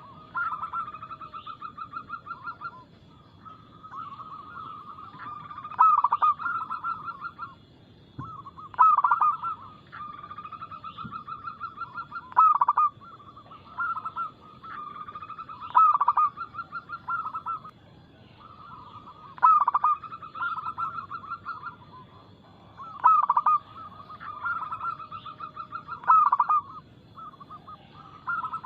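Zebra dove (perkutut) singing its cooing song, the phrase repeated about every three seconds: a quick stuttering run of coos with one louder accented note in each phrase. A faint steady high tone runs underneath.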